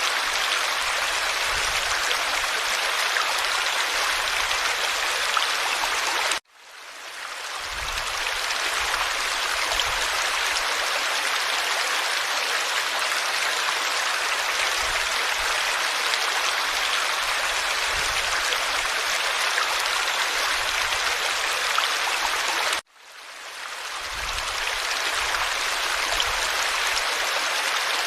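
Forest stream flowing over stones, a steady rushing babble. Twice the sound cuts out abruptly and fades back in over a second or two, like an edit join.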